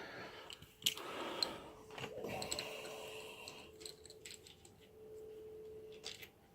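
Scattered small metallic clicks and clinks of hand tools and clutch cover bolts being handled.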